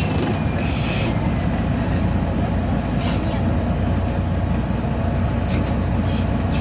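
MAN A23 city bus under way, heard from the passenger cabin: steady engine and road rumble, with a high whine falling in pitch that fades about half a second in.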